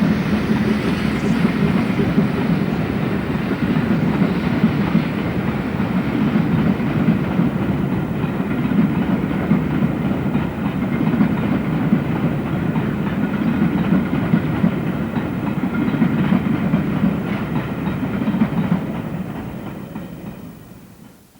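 Steam-hauled train running at speed, a steady running noise that fades away near the end.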